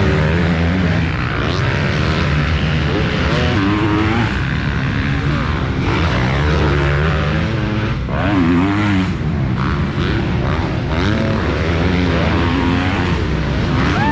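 Several motocross bike engines running hard, pitch rising and falling again and again as riders rev up and back off.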